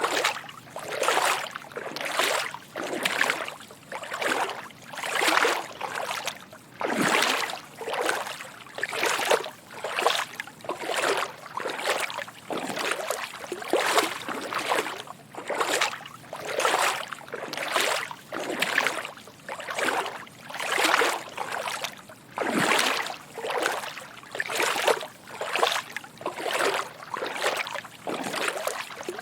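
Footsteps wading through shallow water: a steady walking rhythm of soft sloshing splashes, about one to two steps a second.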